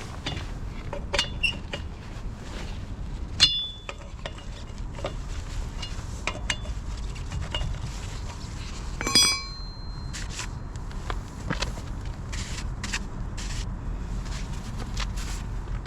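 Metal hand tools and parts clinking and knocking, with two sharper metallic rings about three seconds in and near the middle, over a steady low rumble.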